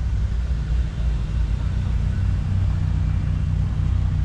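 A car engine running at low speed, a steady deep rumble.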